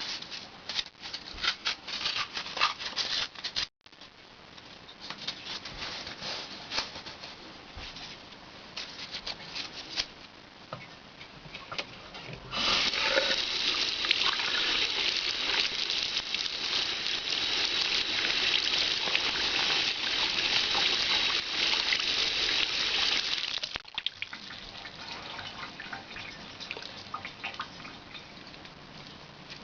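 Scattered crackling clicks, then a steady rush of running water for about eleven seconds that stops suddenly.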